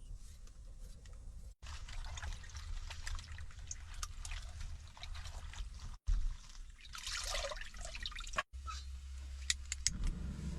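Water trickling and dripping, with small clicks and knocks of kitchen handling, across several short edited segments; a steady low hum sits under some of them.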